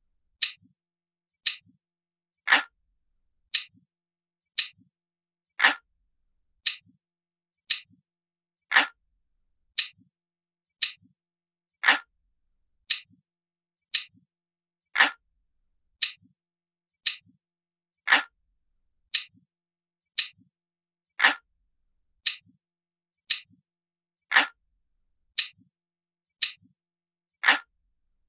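Glass-like clock ticking, one crisp tick about every second, with every third tick louder.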